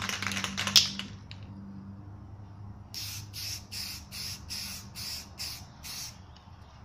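Aerosol spray-paint can: a brief clattering rattle, as of the can being shaken, that ends in a sharp knock about a second in. Then, from about three seconds in, a run of about nine short spray hisses, around three a second, as a signature is sprayed on.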